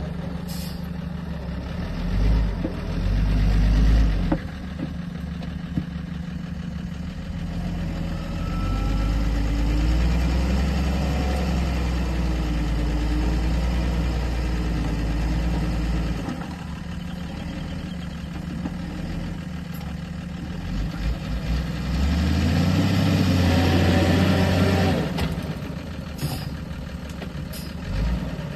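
Heavy vehicle engines running steadily, swelling louder for stretches: briefly soon after the start, for several seconds in the middle, and again near the end with the pitch climbing as an engine revs.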